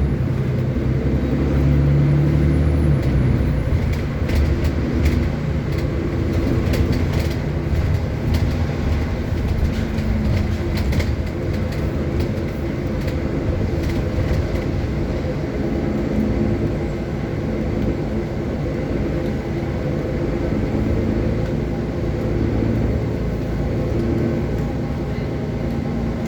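City bus riding along, heard from inside: a steady engine and road drone, with scattered clicks and rattles in the first half.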